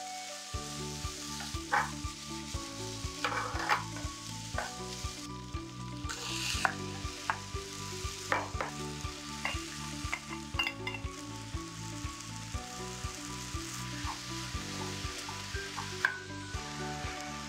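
Bacon, kimchi and vegetables sizzling as they are stir-fried in a frying pan, with a wooden spoon scraping and knocking against the pan many times.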